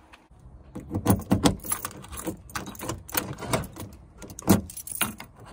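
A bunch of keys jangling and clicking as they are handled, in an irregular run of short metallic rattles, loudest about a second in and again near the end.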